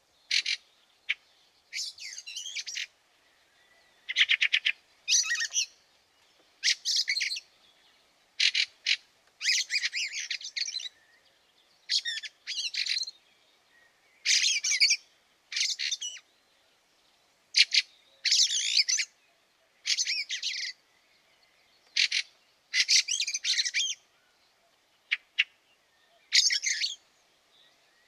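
Fieldfares calling and singing: short bursts of squeaky, chattering phrases mixed with harsh notes, a new burst every second or two.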